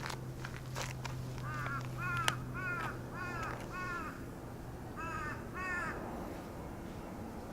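A crow cawing: a run of five short caws, then two more after a brief pause.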